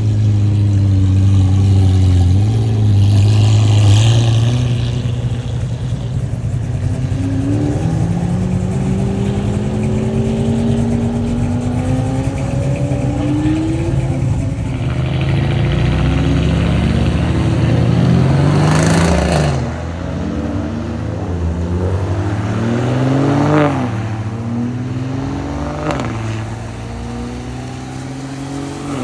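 Car engine accelerating through the gears, its pitch climbing and then dropping sharply at each shift, three shifts in the second half. A steady low engine drone runs underneath, with a short burst of hiss about four seconds in.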